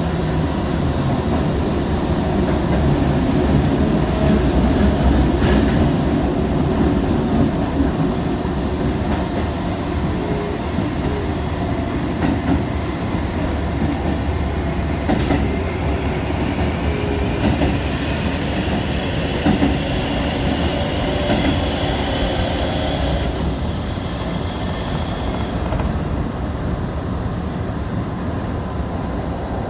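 Shibayama Railway 3500 series electric train running, heard from inside the car: a steady rumble of wheels on rail with a few single clicks from rail joints. A faint high whine rises in the second half and fades out.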